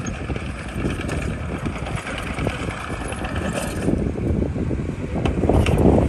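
Heavy earthmoving machinery working: engine running under a dense, irregular metallic clatter, louder near the end.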